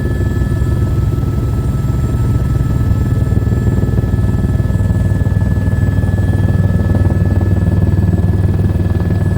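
Steady helicopter drone, a deep hum with high, unchanging whining tones, as heard in flight.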